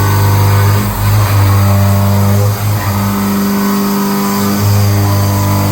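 CNC milling machine running, its motors giving a steady pitched hum that switches between settings every second or two as the moves change.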